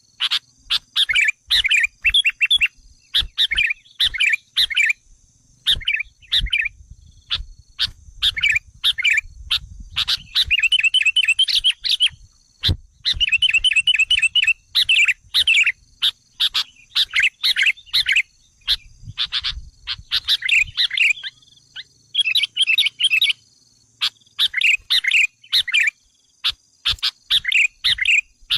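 Sooty-headed bulbuls calling over and over in short, quick chattering phrases, with two faster rattling trills about a third of the way in and again near halfway. A faint steady insect-like buzz runs high above.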